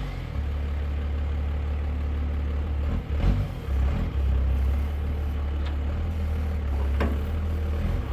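A vehicle engine running with a steady low drone. It falls away briefly twice, about three and four seconds in, and a few light clanks are heard.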